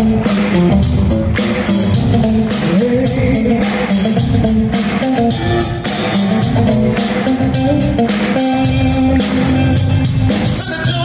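Live rock band playing, electric guitar to the fore over bass and a steady drum beat.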